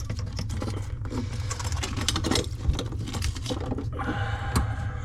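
Rapid, irregular clicking and rattling of hands working old braided rubber faucet supply hoses loose under a sink, over a steady low hum.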